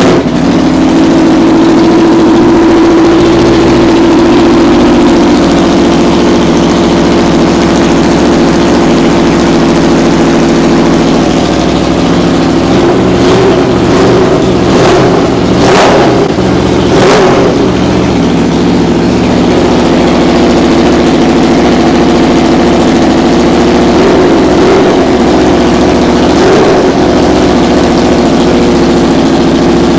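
Straight-piped Aprilia RSV4 V4 engine running loud at idle in a garage, just after start-up. A few quick throttle blips come around the middle.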